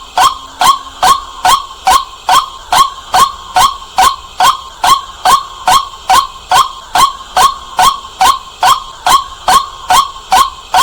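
White-breasted waterhen calls used as a night-time lure: short loud notes repeated very evenly, about three a second.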